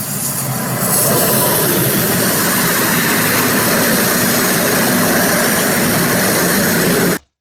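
A freight train running past on the rails, a loud, steady rush of wheel and rail noise that builds over the first second and cuts off abruptly near the end.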